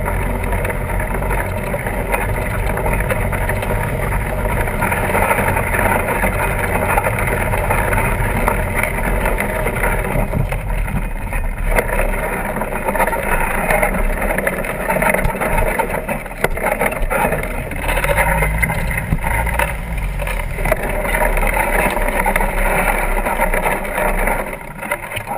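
Steady rushing noise of a fat-tire bike being ridden: wind buffeting the microphone with a low rumble, mixed with the fat tires rolling over the ground.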